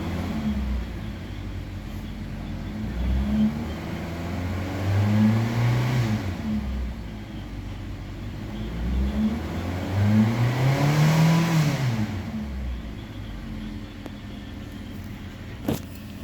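2016 Suzuki Ignis 1.2-litre four-cylinder petrol engine running, revved up and let fall back to idle several times, the longest revs about five and eleven seconds in. A sharp knock near the end.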